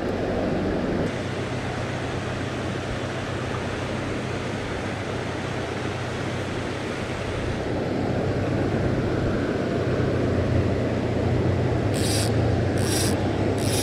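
Steady rush of river water around a wader, with wind buffeting the microphone. Three short, high hissing sounds come near the end.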